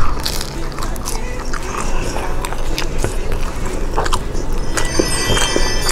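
Close-miked chewing of a fried chicken nugget: irregular little crunches and mouth sounds.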